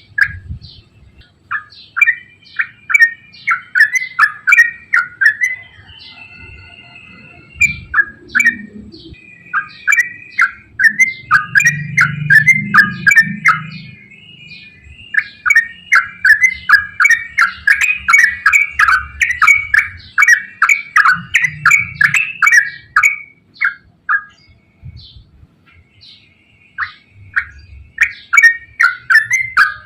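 Yellow-vented bulbul (trucukan) singing long runs of rapid, chattering phrases, pausing briefly about six seconds in and again near the end.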